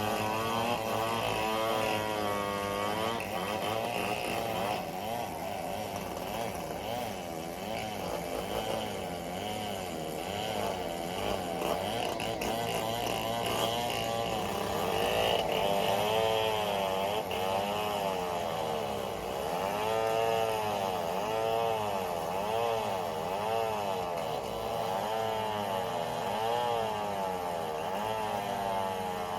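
Chainsaw engine revving up and down over and over, with a steady lower engine hum underneath.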